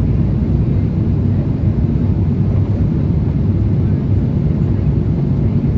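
Steady low rumble of engine and airflow noise inside the cabin of an Airbus A350-1000 airliner, with no change in level.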